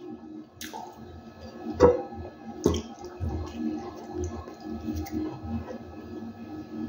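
Close-up wet chewing and lip-smacking of a man eating bolo de caco flatbread, with three sharp smacks about half a second, two seconds and two and a half seconds in.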